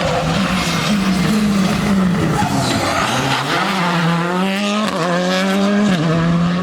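Rally car engine revving hard, its pitch rising and falling through the gears, climbing steeply then dropping sharply on upshifts twice near the end, over a constant rush of tyre and road noise.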